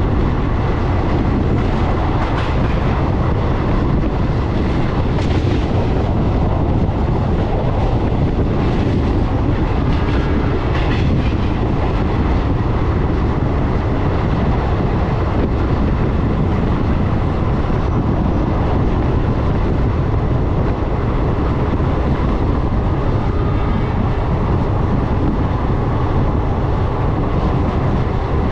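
Passenger train coaches running along the track: a continuous steady rumble of wheels on rail with wind and rattle.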